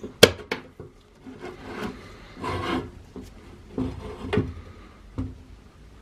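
Hands working on the metal parts of a Dietz D-Lite No. 90 oil lantern: a sharp knock, a few short rubbing or scraping strokes, and another knock about five seconds in.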